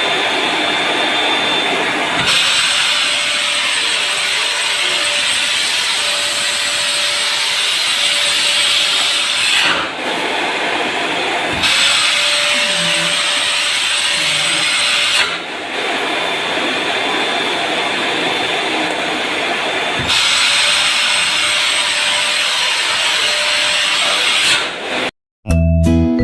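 Electric vacuum cleaner motor running with a steady rushing whine, its tone shifting several times. It cuts off near the end, and acoustic guitar music starts.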